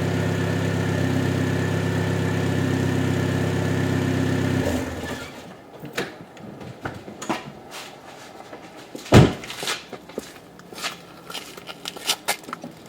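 1997 Audi A4 1.8T's turbocharged four-cylinder idling steadily through a deleted muffler and gutted catalytic converter, then stopping about a third of the way in. Scattered clicks and one loud thump follow.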